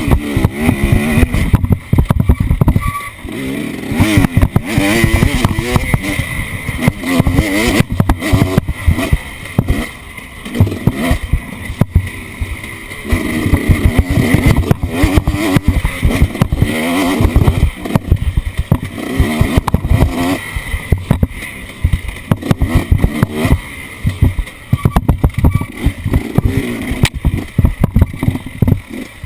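An off-road vehicle's engine revving up and down again and again under changing throttle, with many sharp thumps and rattles mixed in.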